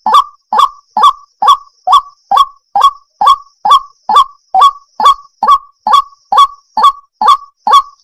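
Waterhen (jal murgi) calling: a monotonous series of short, honking notes, about two and a half a second, each sliding up slightly to a peak near the top.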